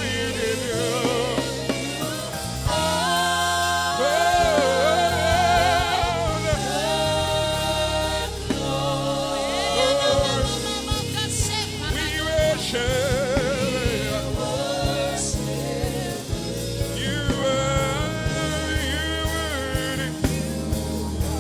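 Live gospel worship music: a band with a steady bass line and sung voices holding long, wavering notes, the congregation singing along.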